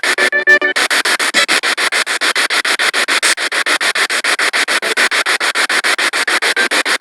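Spirit box radio sweeping through stations: static chopped into rapid, even pulses about nine times a second, with a brief pitched fragment of a broadcast about half a second in.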